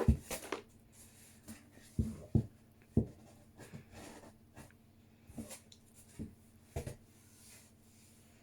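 Pen or marker writing on paper in short scratchy strokes, with several brief soft thumps in between.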